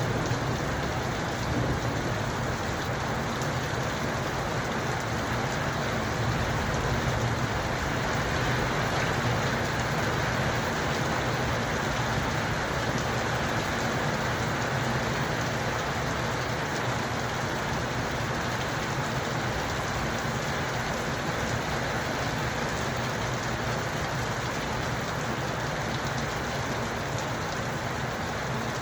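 Steady, dense rainfall, an even wash of drops with no pauses.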